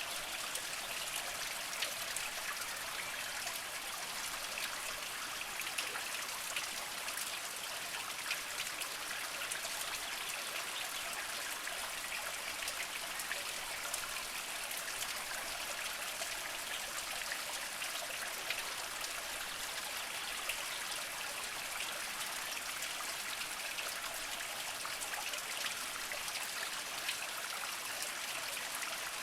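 Small mountain spring trickling over mossy rocks: a steady water sound dotted with many small drips and splashes.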